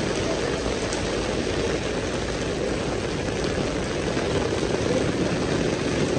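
Heavy rain in a downpour, falling steadily on wet pavement and umbrellas as an even, dense hiss.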